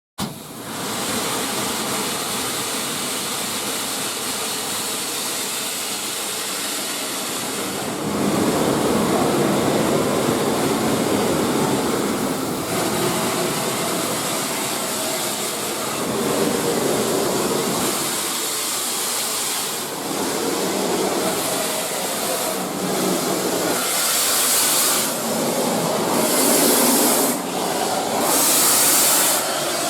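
Steam locomotive hissing steam as it works, a steady rushing noise that gets louder about eight seconds in. Near the end come strong bursts of hiss about every two seconds.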